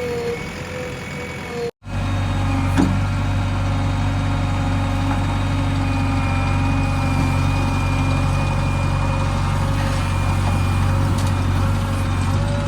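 Heavy diesel engine of earthmoving or farm machinery running steadily. A wavering whine is heard at first; it breaks off abruptly about two seconds in, and a lower, steady engine note with a deep rumble continues.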